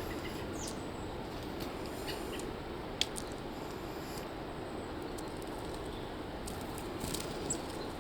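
A few brief, faint high chickadee chirps, mostly near the end, over steady low background noise, with one sharp click about three seconds in.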